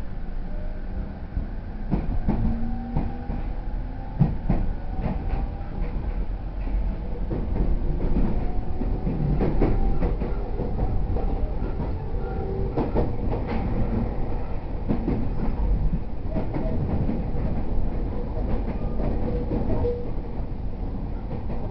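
E231 series 0 electric commuter train heard from inside the car while running: its traction motor whine climbs in pitch over the first several seconds as the train picks up speed. Under it are a steady low rumble of the running gear and the clatter of wheels over rail joints.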